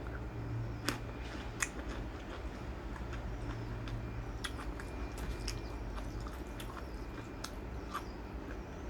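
A person chewing and biting food close to the microphone, with scattered small crunches, over a steady low hum.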